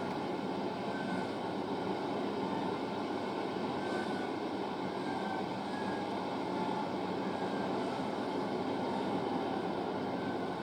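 Great Western Railway Class 43 HST with its diesel power cars passing slowly through the station: a steady rumble with a few faint, brief squeals.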